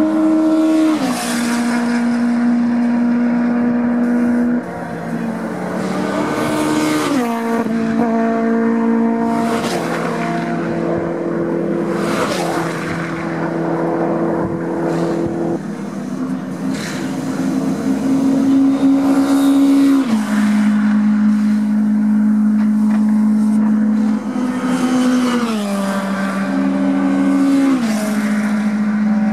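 Touring race car engines running hard at racing speed, their pitch stepping down sharply several times as gears change, with cars whooshing past every few seconds.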